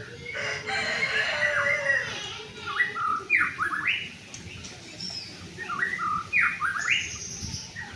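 White-rumped shama (murai batu) singing: varied, rapid whistled phrases, with bursts of quick repeated notes about three seconds in and again near the end.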